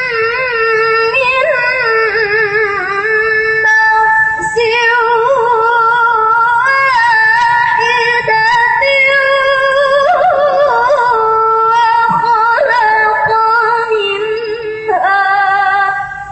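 Melodic Qur'an recitation (tilawah) by a single high voice: long held phrases with wavering, ornamented turns of pitch, ending just before the close.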